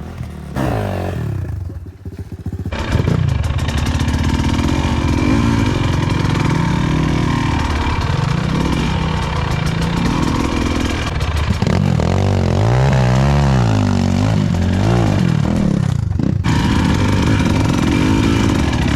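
Off-road motorcycle engine revving, its pitch rising and falling again and again as the throttle is worked. It gets louder about three seconds in.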